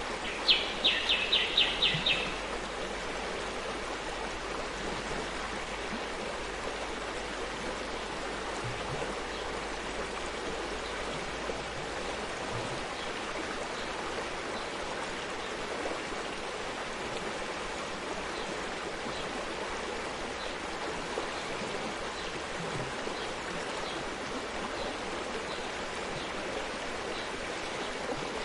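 Forest stream flowing and babbling steadily. About half a second in, a bird gives a quick run of about eight sharp, evenly spaced high notes lasting under two seconds.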